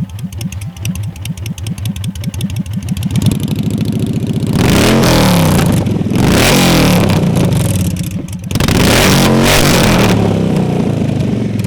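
Victory 8-Ball motorcycle's V-twin engine running through Conquest Customs Ground Pounder drag pipes: a pulsing idle, then three hard revs, each held a second or two, in the second half before it drops back toward idle.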